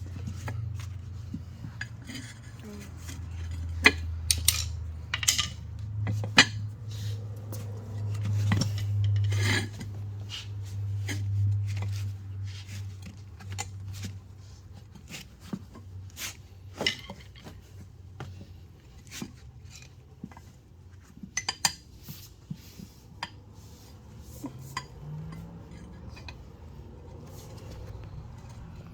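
Metal tire tools clinking and scraping against the wheel rim in irregular knocks while the bead of a lawn tractor tire is pried over the rim edge. A low hum runs under the first half and fades out.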